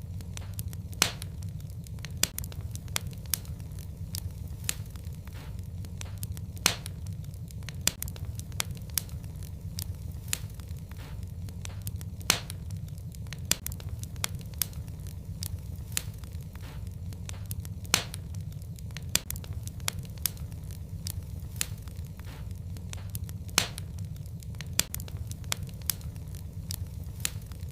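Wood fire burning in a fireplace: a steady low rumble of flames with irregular sharp crackles and snaps, and now and then a louder pop.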